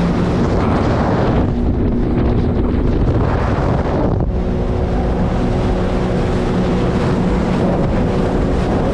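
A watercraft engine runs at a steady pitch under heavy wind buffeting on the microphone and rushing water.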